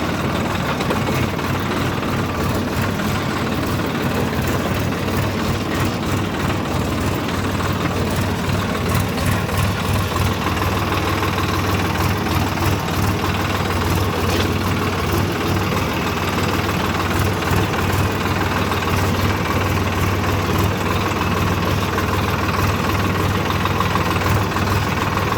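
Tractor diesel engine running steadily at a constant speed, a low, even engine sound with no revving.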